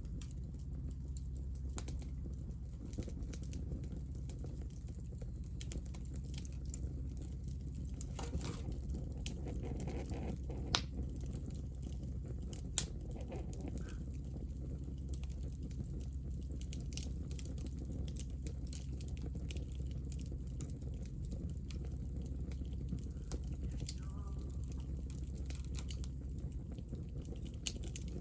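Hinoki (Japanese cypress) wood offcuts burning in an open fire, crackling with scattered small pops and two sharper snaps about 11 and 13 seconds in, over a steady low rumble.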